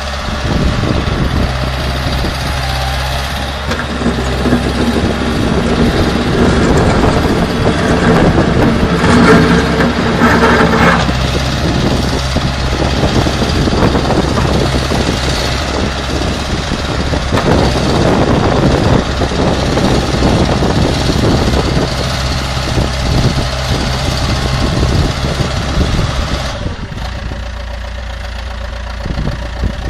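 Diesel engine of a Case 590 Super M Series II loader backhoe running, rising in pitch and load for a few seconds about a third of the way in, then falling back to a steadier run. It settles to a lower, quieter idle near the end.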